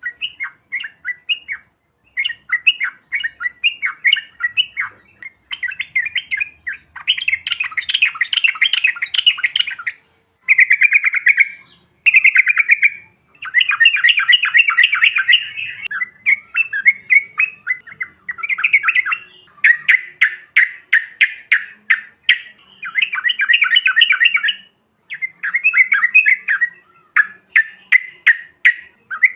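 Yellow-vented bulbul (trucukan) singing: long runs of fast chattering notes, each run lasting a second or a few seconds with short breaks between, and faint high ticks over them.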